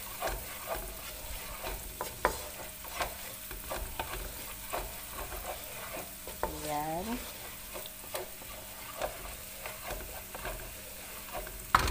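Diced onion sizzling in hot oil in a wok while a wooden spatula stirs it, with frequent irregular clicks and scrapes of the spatula against the pan.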